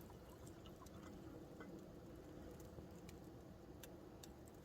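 Near silence with a few faint, scattered crackles from the wood fire.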